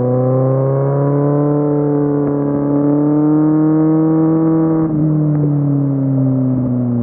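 Kawasaki Z750 inline-four engine pulling, its pitch rising slowly. About five seconds in the throttle shuts and the revs fall away steadily.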